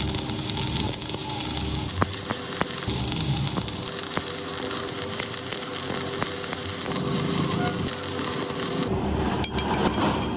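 Electric arc welding: a steady crackling sizzle over a faint hum that cuts off abruptly about nine seconds in, followed by a few sharp metallic clinks.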